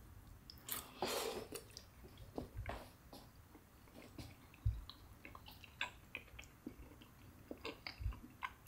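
A person quietly chewing a mouthful of chicken Alfredo pasta, with scattered light clicks of a metal fork against the plate.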